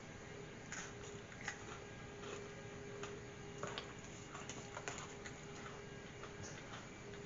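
Pocky chocolate-coated biscuit stick being bitten and chewed: faint, irregular small crunches and crackles, over a faint steady hum.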